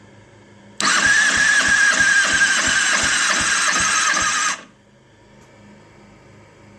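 2009 Kawasaki ZX-6R inline-four turned over on its electric starter for a compression test, cranking for about four seconds with a starter whine and an even beat of compression strokes, about four a second, then cutting off suddenly. It cranks slowly on a weak battery.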